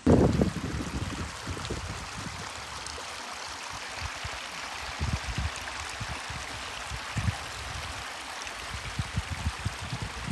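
Steady rush of falling water from a spring-fed waterfall, with irregular low bumps, the loudest right at the start.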